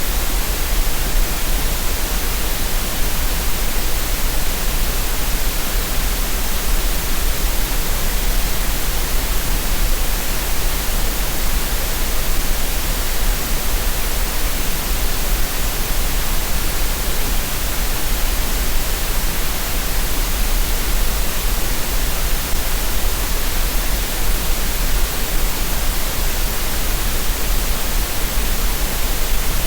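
Synthetic green noise: a steady, unchanging hiss that spreads evenly across the range, with no tones or breaks.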